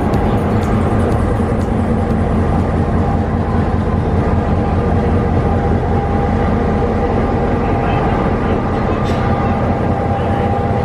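Steady running drone of a moving vehicle: a constant engine hum over rumble.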